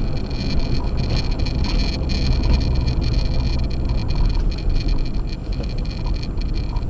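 Acura MDX driving on a snow-covered road on Sumitomo Ice Edge winter tyres: a steady low rumble of tyre and road noise.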